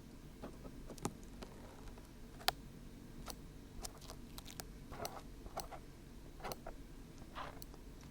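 Dried glue being peeled off the ear of a 3Dio binaural microphone: irregular small ticks and soft crackles close to the ear, a dozen or so sharp clicks spread unevenly among them.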